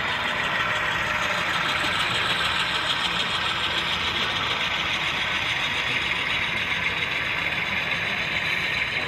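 Model train running on a layout, with a steady engine-like sound that does not let up, over the background noise of the show hall.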